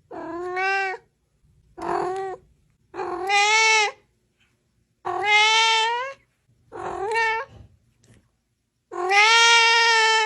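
A cat meowing six times, long drawn-out meows with pauses between them; the last meow is the longest and loudest.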